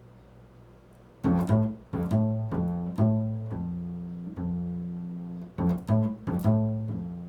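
Low plucked string notes in the bass register, starting about a second in. Each note is struck sharply and left to ring, several in a row, sounding the interval of a third.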